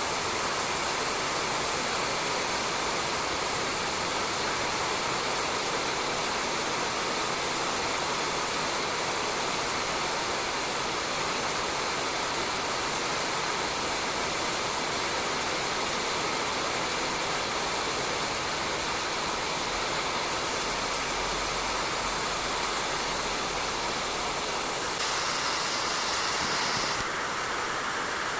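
Steady rain falling on a roof, an even continuous hiss, briefly a little brighter about 25 seconds in.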